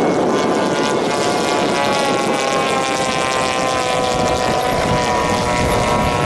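Giant-scale RC model airplane's engine and propeller in flight, a steady drone whose pitch slowly falls as it passes.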